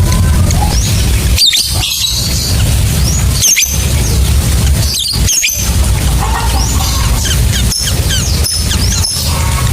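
Lovebirds chattering with rapid, high-pitched chirps and squeaky trills, over a steady low drone.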